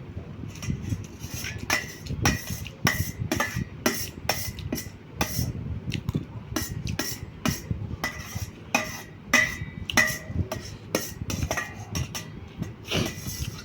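A metal spoon clinking and scraping against a plate while eating: repeated sharp clinks, two or three a second, each with a short ring.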